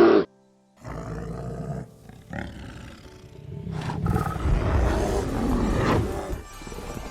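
A large wild animal's low, rough call begins about a second in and swells to its loudest a few seconds later, with music playing.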